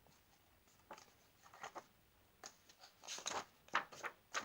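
Faint rustling and crinkling of paper in short bursts, the pages of a picture book being handled and turned.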